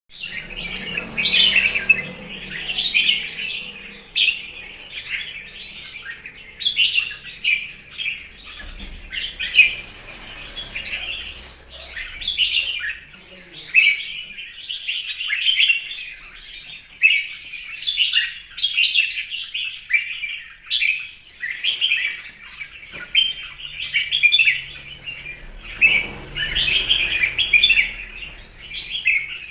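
Red-whiskered bulbul (chào mào) singing loudly: bright, short warbled phrases repeated one after another with only brief pauses. This is its 'hót đấu' fighting song, the rival-challenging song for which the bird is kept.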